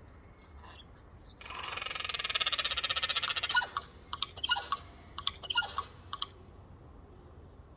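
Eurasian jays calling: a loud, fast rattle lasting about two seconds, then a string of sharp clicks and short notes.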